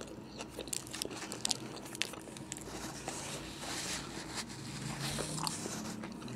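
A person biting and chewing a mouthful of a roast beef sub on soft, untoasted bread, with irregular small mouth clicks throughout.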